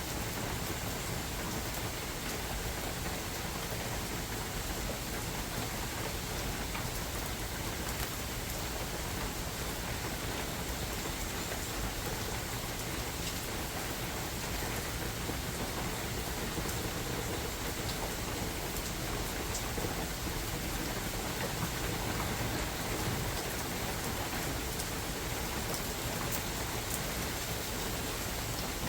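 Steady rain falling in a forest, a continuous hiss with scattered drops pattering on leaves and surfaces.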